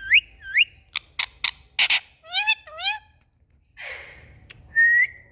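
Indian ringneck parakeet (rose-ringed parakeet) calling: short upward-swooping chirps, a few sharp clicks and a breathy rasp. After a brief pause comes a short whistle near the end.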